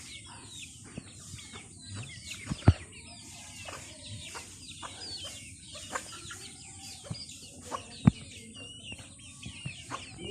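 Chickens clucking, with many short high chirps throughout and two sharp knocks, one about a quarter of the way in and one near the end.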